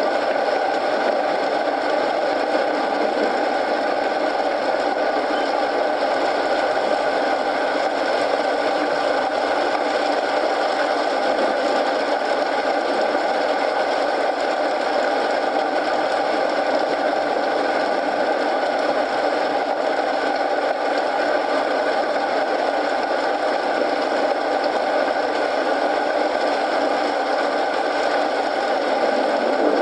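Steady rain mixed with a crackling wood fire in a fireplace, an even, dense noise that holds unchanged throughout.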